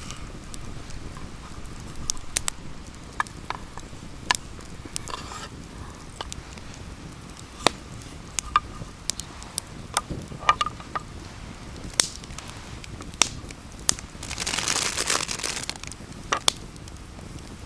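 Wood campfire crackling, with irregular sharp pops and snaps. About three quarters of the way through there is a brief, denser burst of noise lasting about a second.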